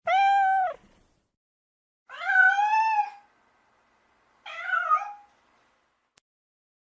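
Domestic cat meowing three times, each call under a second with pauses between: the first held steady and dropping at its end, the second rising then falling, the third short. A faint click follows near the end.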